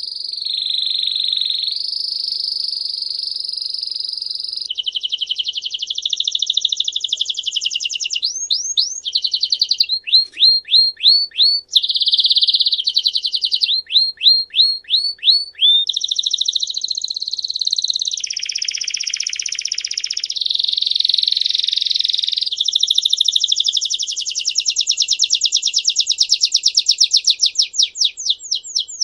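A songbird singing a long, unbroken song of high trills and rolls, switching phrase every second or two. It includes runs of quick downward-sweeping notes at about three a second, and it starts abruptly.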